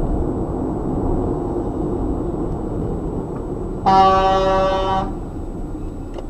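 Steady road and engine noise of a moving car, then a car horn sounds once, loud, for about a second, some four seconds in.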